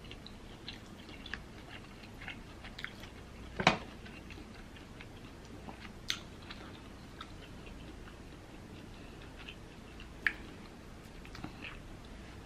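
Close-miked chewing and wet mouth sounds of someone eating soft seafood in a creamy sauce, with scattered soft clicks and a few sharper knocks, the loudest about three and a half seconds in.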